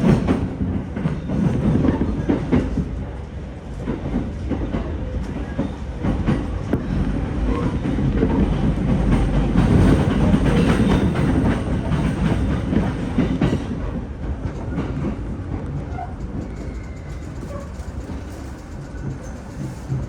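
Sobu Line local electric train heard from inside the carriage, its wheels clattering over rail joints and points with a steady running rumble. The noise eases off in the last third as the train slows on its approach to the terminal.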